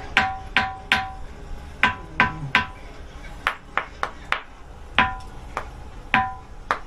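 Ringing rock being struck over and over, each hit a sharp knock followed by a short pitched ring, about fourteen hits in uneven groups.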